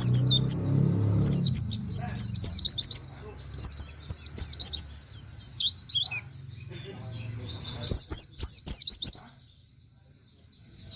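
A pleci (white-eye) singing in fast runs of sharp, high, falling notes, canary-like 'wit wit' phrases, in several bursts with short pauses. The song breaks off about a second and a half before the end.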